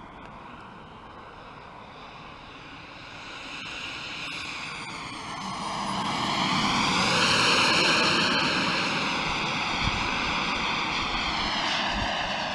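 Radio-controlled model Eurofighter jet flying overhead, its engine whine and rushing air growing louder as it comes closer, loudest about seven to eight seconds in, then easing a little, with slight shifts in pitch as it passes.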